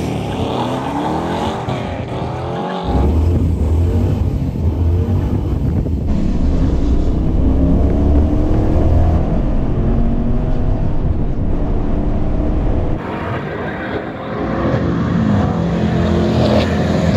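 V8 muscle-car engine at full throttle on a drag run, its pitch climbing with the revs. It drops back about three seconds in and again near the end, then climbs once more.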